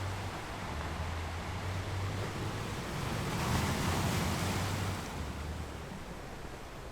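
Ocean waves washing and breaking against rocks, a continuous surf noise that swells into a louder surge about halfway through and then eases back.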